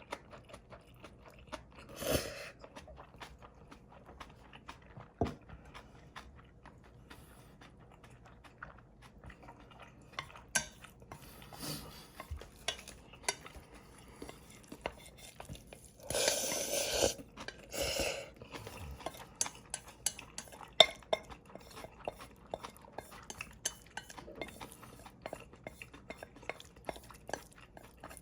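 Eating cold mixed noodles: cutlery clicking and scraping against a dish, with chewing between. Two louder noisy bursts of about a second come around 16 and 18 seconds in.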